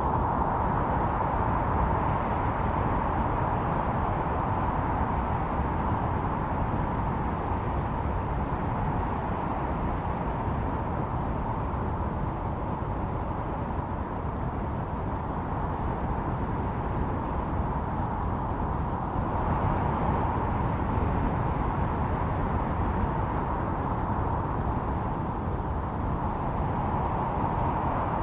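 Howling snowstorm wind: a steady rushing roar carrying a whistling howl at one pitch. The howl is strong at first, eases off through the middle and builds again about two-thirds of the way through.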